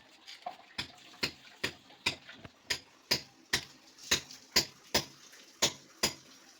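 Hammer tapping steadily on hard metal or masonry: about a dozen sharp clinking strikes, roughly two a second.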